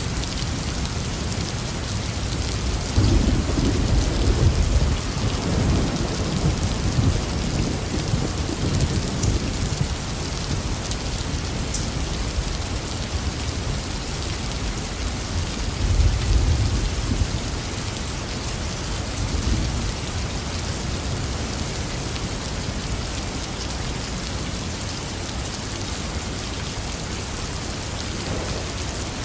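Heavy rain falling steadily, with rolling thunder rumbling low: a long roll about three seconds in lasting several seconds, another shorter roll around sixteen seconds in, and a fainter rumble shortly after.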